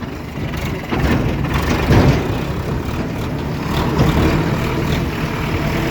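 Tractor engine running under load as it drives over rough field ground, with a few loud knocks from the jolting, the loudest about two seconds in.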